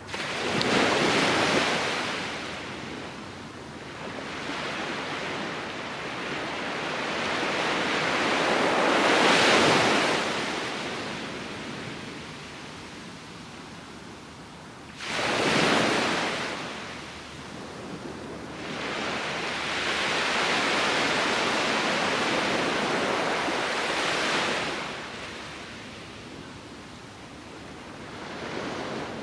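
Ocean surf breaking and washing up the shore in repeated surges, each swelling and fading over a few seconds, with a sharper crash about halfway through.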